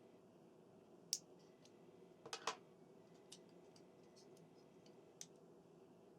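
Faint clicks of small plastic model-train parts being handled and unclipped: a sharp click about a second in, a quick double click about two and a half seconds in, and a lighter click near the end.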